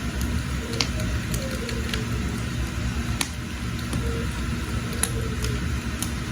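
Wood fire burning: a steady low rumble with sharp crackles and pops scattered through it.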